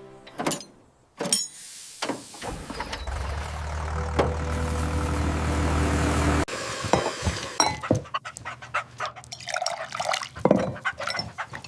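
Cartoon sound effects: a rushing whoosh with a low rumble that builds for several seconds and cuts off suddenly, followed by a run of splashing and dripping water.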